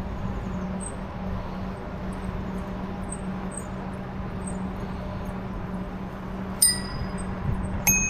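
E-bike riding along with a steady motor hum and road and wind noise. Near the end two bicycle bells ring once each, a little over a second apart, at different pitches that are not in tune with each other.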